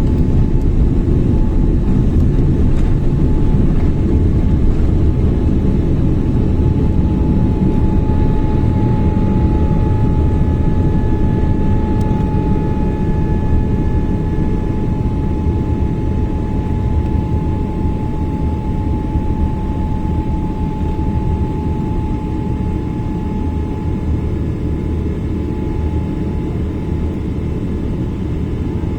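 Boeing 777-300 jet engines heard from inside the cabin: a loud steady low roar with a thin steady whine over it, easing a little toward the end.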